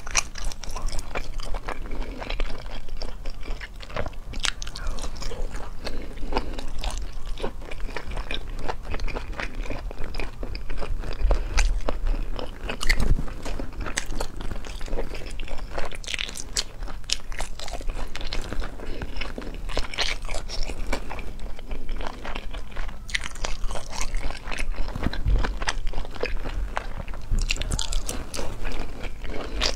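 A person biting and chewing saucy braised food close to a clip-on microphone: wet mouth sounds with many irregular crunchy clicks throughout.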